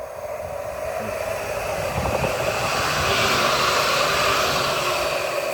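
Nottingham Express Transit tram passing at speed: a steady rush of wheels on rail and running gear that grows louder to a peak about three to four seconds in, then eases slightly.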